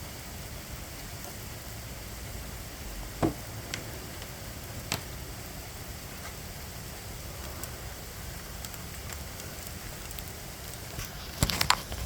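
Steady hiss of falling rain, with a few sharp ticks of drops striking something close by: one about three seconds in, another about five seconds in, and a quick cluster near the end.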